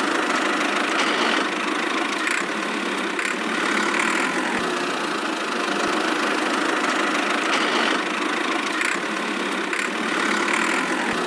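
Steady engine-like running of a miniature DIY tractor, even in level throughout and thin in the low end.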